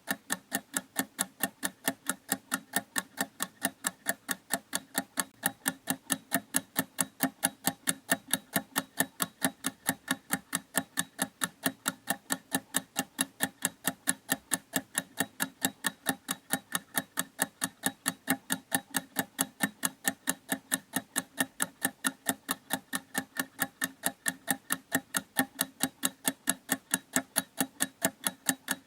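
Clock ticking in a fast, even rhythm, several ticks a second, each tick equally loud.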